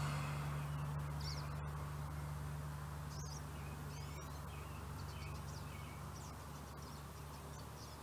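Scattered faint, short high bird chirps over a steady low hum, with a few soft clicks.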